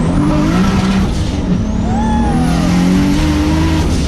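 Turbocharged 2JZ-GTE straight-six of a 900 hp Lexus SC300 pulling hard. The revs climb, drop at a gear change about a second in and climb again, with a rising turbo whistle over the engine.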